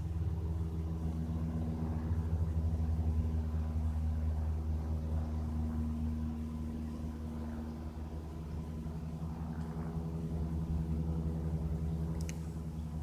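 Steady low engine drone holding one pitch throughout, with a humming tone that swells for several seconds early on and then fades back.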